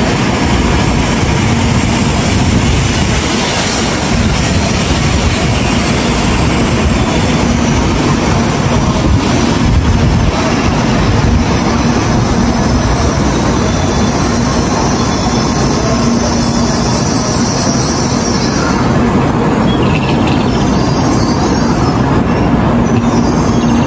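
N700A Shinkansen high-speed train running into the platform and slowing as it arrives: a loud, steady rolling rumble with a low hum, its higher hiss dying away over the last several seconds.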